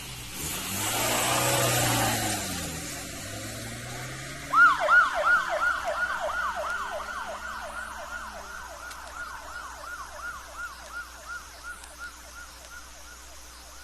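Police car engine revving as it pulls away, then its yelp siren comes on about four and a half seconds in. The siren wails up and down in quick sweeps, about three a second, loudest when it starts and fading as the car goes into the distance.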